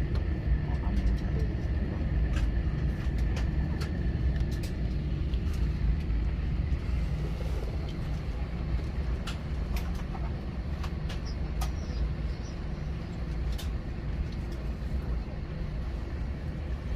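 Airliner cabin noise in an Airbus A321 on the ground before takeoff: a steady low rumble, with a faint high tone fading over the first few seconds and scattered light clicks and rattles.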